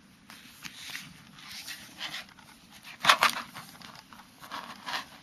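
Postcards being handled and leafed through: a series of soft paper sliding and rustling sounds, the loudest about three seconds in.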